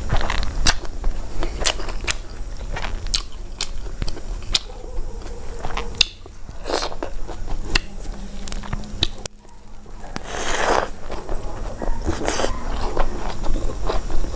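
Close-miked chewing and lip smacking of a mouthful of rice, full of short wet clicks, with a few longer rustling swishes as the fingers gather and mix rice on the plate.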